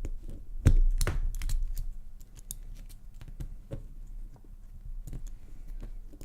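Small metal clicks and taps of a key and padlock parts being handled: the key going into a Trioving SEC lock core, with one louder knock about a second in and lighter clicking after.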